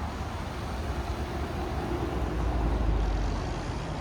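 A car's engine running low and steady, its rumble swelling and then easing about two to three seconds in.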